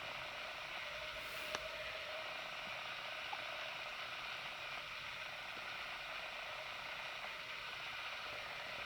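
Quiet, steady hiss of room tone, with one faint click about a second and a half in.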